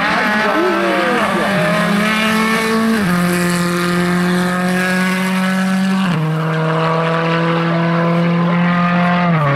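Rally car engine at high revs under full throttle, its note climbing slowly and stepping down twice about three seconds apart as it shifts up. The pitch falls sharply at the very end as the driver lifts off.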